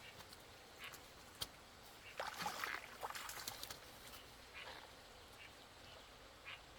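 Short, scattered animal calls, quack-like, with a busy cluster about two seconds in and a few single calls later.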